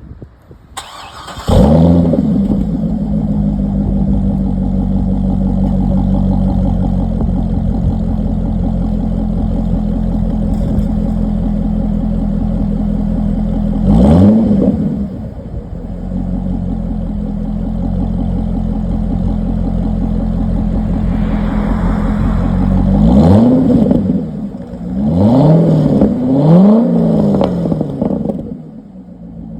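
Chevrolet Corvette C6's LS3 6.2-litre V8 through a Borla exhaust, cranked and catching about a second in, then settling into a steady idle. It is revved once midway and three more times near the end, each a quick rise and fall in pitch, before it drops back to a quieter idle.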